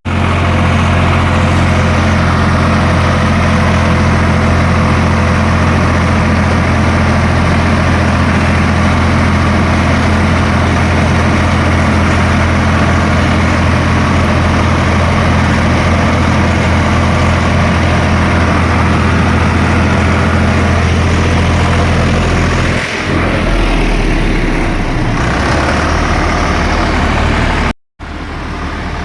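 Swaraj 855 tractor's three-cylinder diesel engine running steadily while pulling a loaded trolley through mud. About 23 seconds in, the engine note drops lower and changes, and the sound cuts out abruptly for a moment near the end.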